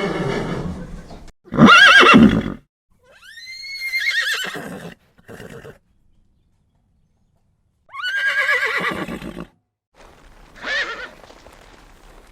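A series of separate animal calls, each with a quavering, wavering pitch, broken by abrupt silent gaps; the loudest comes about two seconds in, and the last ones are short and fainter.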